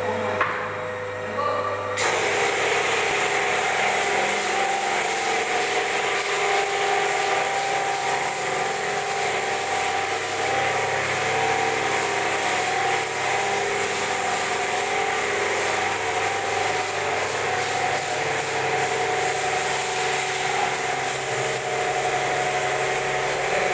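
Pressure washer running, a steady motor hum under a dense hiss of spraying water that starts about two seconds in and holds evenly.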